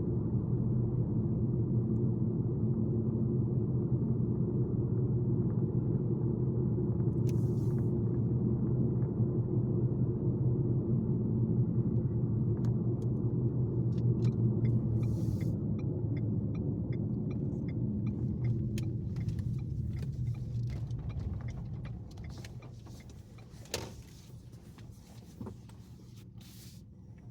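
Car interior noise while driving: a steady low rumble of road and engine, with a run of even ticks in the middle. The rumble dies away about two-thirds of the way through as the car slows to a stop, and a few sharp clicks and knocks follow.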